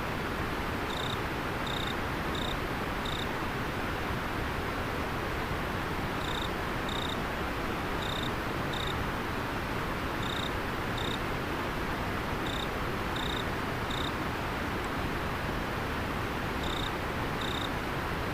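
Steady rush of flowing river water, with an insect chirping high over it in short runs of two to four notes every few seconds.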